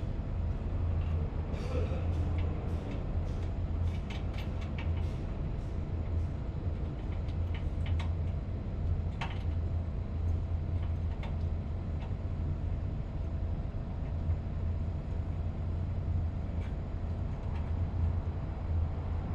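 Steady low mechanical hum of running machinery, with scattered light clicks and taps of tools on metal, more of them in the first half.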